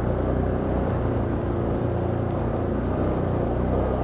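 Can-Am Outlander ATV engine running steadily at an even pace while riding along a trail.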